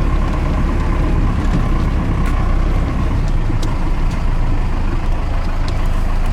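Cummins 4BT four-cylinder diesel in a Ford F-150 running steadily, a low rumble heard from inside the cab, with a few faint ticks over it.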